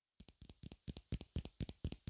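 A soft brush swept in quick, even strokes, about four a second, starting just after a moment of silence.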